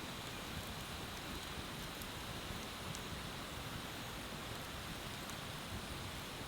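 Bonfire by a river: a steady rushing hiss of flowing water with a few faint, scattered crackles from the fire.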